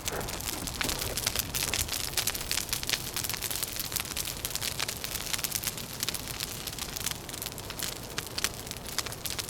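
Wood fire crackling, with dense irregular snaps and pops over a steady low wind.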